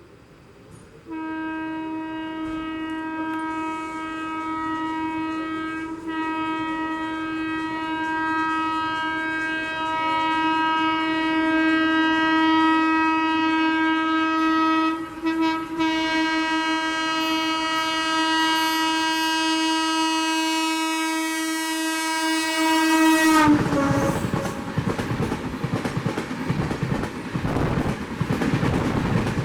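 Express locomotive horn sounding one long blast of about twenty seconds as the train approaches at speed, briefly interrupted about two-thirds of the way through. Its pitch drops as the locomotive passes, and the horn gives way to the loud rush and clatter of the coaches speeding through.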